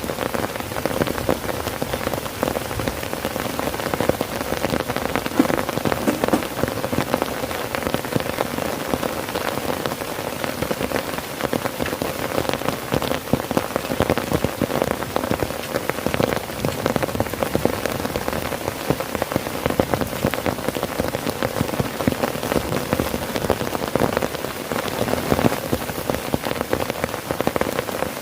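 Heavy rain falling steadily on a tent, a dense patter of countless drops on the fabric.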